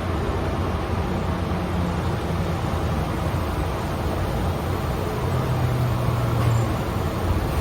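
Hankyu 5300 series resistance-controlled electric train running, heard from inside the car: a steady rumble of wheels on the rails, with a low hum coming in briefly about five seconds in.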